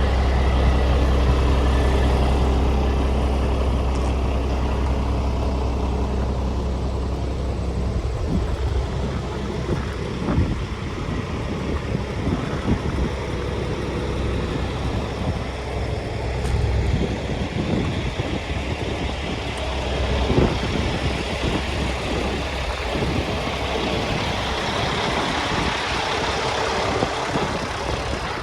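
Paccar diesel engine of a Kenworth T660 truck running at idle. It starts as a steady low hum, and from about eight seconds in it turns rougher and more uneven, with scattered knocks and flutters.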